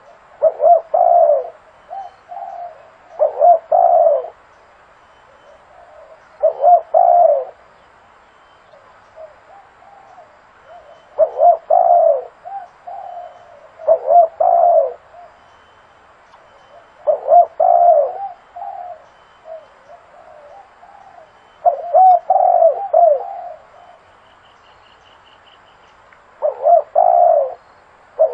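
Spotted dove cooing: short repeated coo phrases every few seconds, each a few low notes. This is a lure call for drawing in wild doves.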